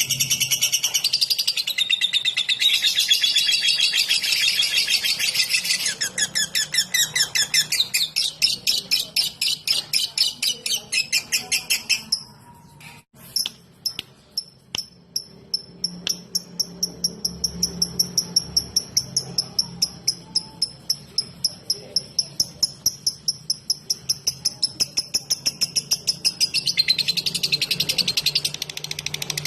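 Lovebird 'ngetik': a rapid, ticking chatter of high repeated notes, several a second. It opens in a dense run, breaks off briefly with a few clicks about halfway through, resumes as even ticking notes, and thickens into dense chatter again near the end.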